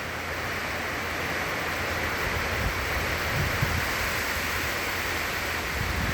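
Hurricane wind and driven rain making a steady roar that slowly builds. Gusts buffet the microphone with low rumbles from about halfway through.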